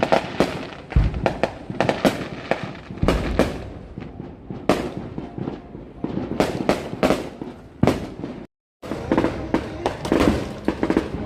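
Dense crackle of firecrackers and fireworks, many sharp pops and bangs in quick succession. The sound cuts out completely for a moment about eight and a half seconds in, then the popping resumes with music underneath.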